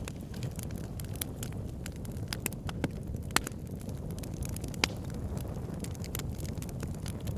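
Wood fire burning in a fireplace: a steady low rumble of flames with frequent irregular crackles, and a couple of louder sharp pops about three and a half and five seconds in.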